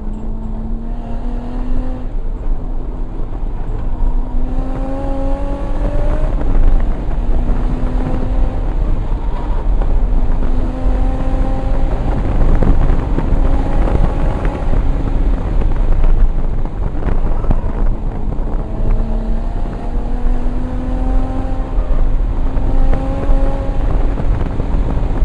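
Single-turbo 1994 Toyota Supra's inline-six at racing speed on track, heard from inside the car. The engine pitch climbs and drops back several times as it pulls hard and shifts or lifts for corners, over a heavy low rumble of road and wind noise.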